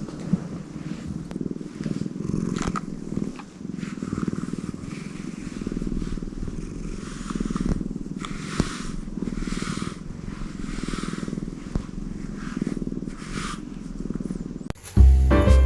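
Tortoiseshell cat purring steadily, swelling and fading with each breath about every two seconds. Music starts abruptly near the end.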